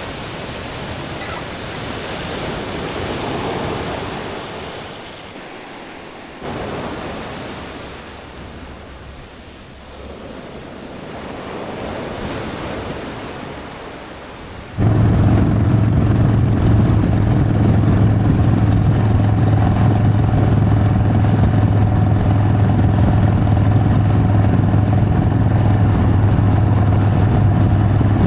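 Ocean surf washing in and out for about the first half. Then, just past halfway, a Harley-Davidson Sportster's air-cooled V-twin engine cuts in suddenly, loud, and runs at a steady speed.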